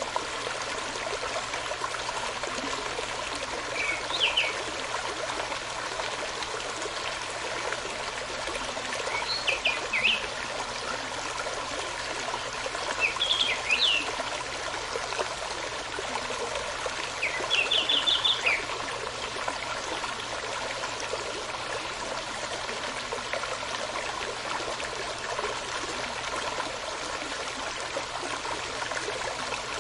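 A stream running steadily, with a bird calling in short quick bursts of notes four times over the first twenty seconds, the last a rapid run of notes.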